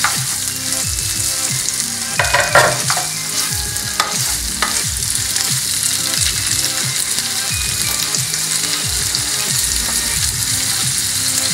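Chicken breast pieces sizzling in olive oil in a frying pan with carrot and red pepper, a steady hiss. A wooden spoon stirs them, knocking and scraping against the pan a few times in the first half.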